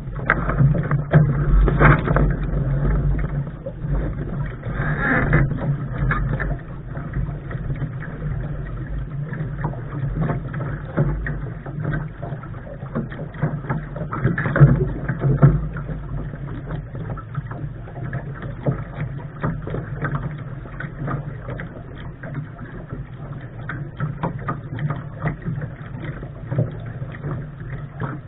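Wind rumbling on the microphone and water rushing along the hull of a Lark sailing dinghy under way, with louder surges about 2, 5 and 14 seconds in.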